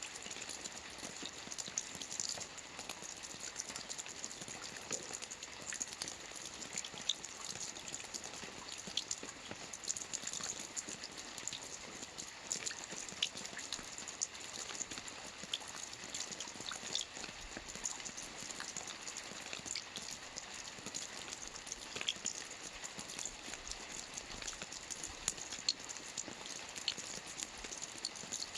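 Rain falling on a lake: steady patter with many scattered individual drop splashes.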